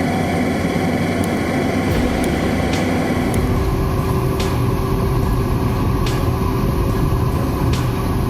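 Heavy truck engine running steadily, with a few sharp clicks now and then.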